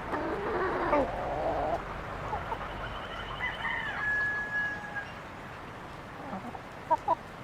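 Chickens clucking and calling, with a longer drawn-out call in the first two seconds and two short, sharp clucks about seven seconds in.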